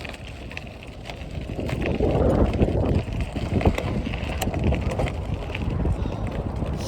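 Wind buffeting the microphone over the rolling rumble of a bicycle being ridden, with a few sharp clicks; the noise grows louder about two seconds in.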